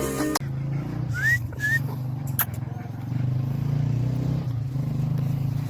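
An engine running steadily at a low pitch. Two short rising chirps come just over a second in, and a sharp click follows a second later.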